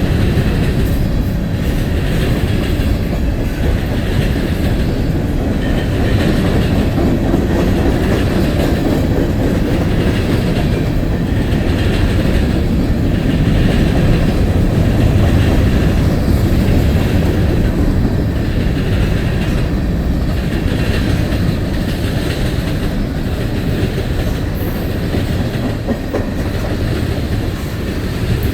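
Freight train cars rolling past: a steady rumble with a repeating clickety-clack of steel wheels over the rail joints.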